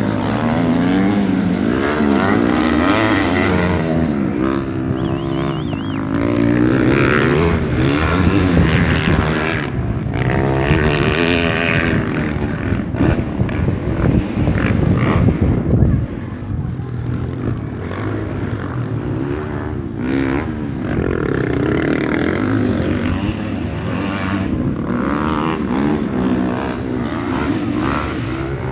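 Several racing motorcycle engines revving and passing, their pitch repeatedly climbing and dropping as the riders accelerate and shift.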